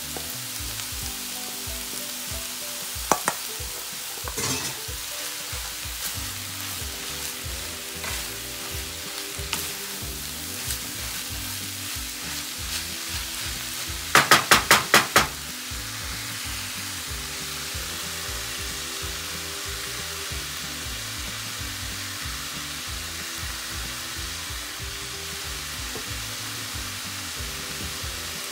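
Chopped vegetables and flaked fish sizzling as they fry in a pan, stirred with a wooden spoon. About halfway through comes the loudest sound, a quick run of about six sharp knocks of the spoon against the pan.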